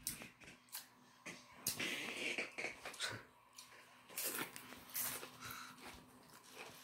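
Faint, irregular crunching and mouth noises of someone chewing potato chips, in short scattered bits.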